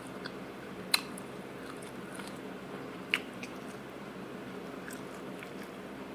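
A person chewing and biting food close to the microphone, with a few sharp wet mouth clicks, the loudest about a second in and again about three seconds in.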